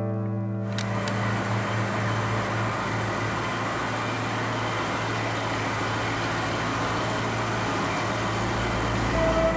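A car engine running: after a click about a second in, an even, noisy rumble sets in over a steady low hum and swells in the low end near the end before cutting off suddenly.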